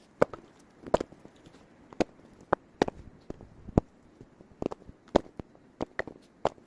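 Irregular sharp cracks and knocks of firewood, roughly one or two a second, some louder than others.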